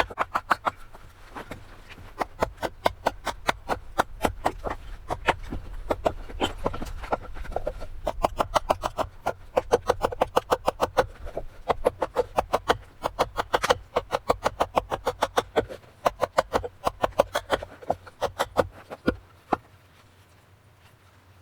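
Rapid series of short, sharp knocks or strokes, about five a second, in runs of a few seconds with brief pauses, stopping shortly before the end.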